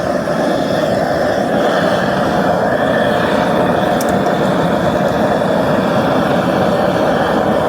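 Propane forge burner running steadily, a constant rush of burning gas with no change in pitch or level, and a faint tick about four seconds in.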